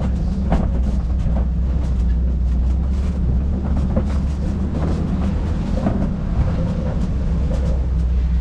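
Open-sided safari truck driving: a steady low engine rumble with scattered knocks and rattles from the vehicle.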